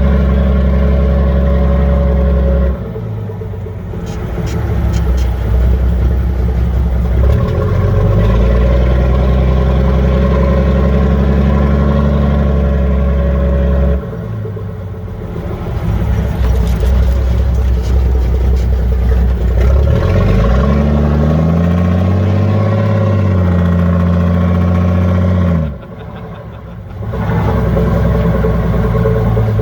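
14-litre Cummins diesel of an M923 5-ton military truck running under load while driving, its note dropping briefly twice, climbing in revs past the middle, and falling sharply near the end before picking up again.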